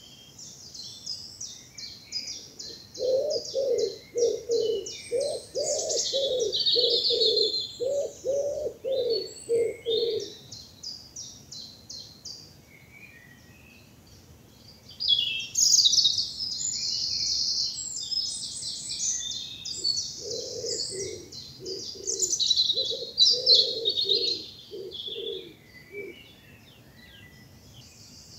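A spring woodland dawn chorus: several small songbirds chirp and trill high up throughout. Twice, a pigeon joins in with a long series of low, evenly repeated coos.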